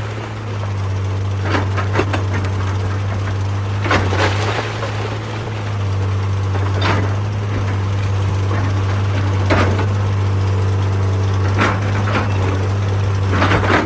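Excavator diesel engine running steadily under load, with sharp cracks and knocks of rock being struck and breaking every two to three seconds.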